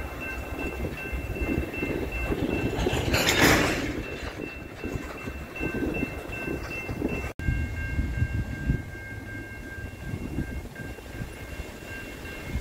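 Freight train of tank cars rolling past, a low rumble with wheel clatter, over a few faint steady high-pitched tones. A brief hiss about three seconds in; a little past halfway the sound cuts off abruptly and comes back quieter.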